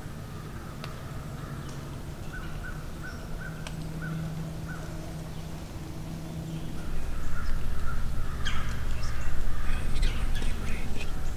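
Birds calling outdoors: a quick run of short repeated notes, with more calls and sharp clicks later, over a low rumble that grows louder about seven seconds in.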